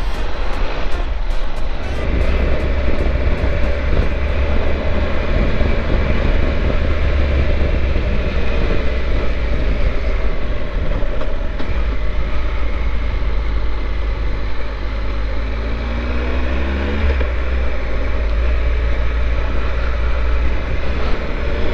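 Triumph Tiger 1200's three-cylinder engine running under way, mixed with a steady low rumble of wind. Its note rises a few times in the second half as the bike accelerates.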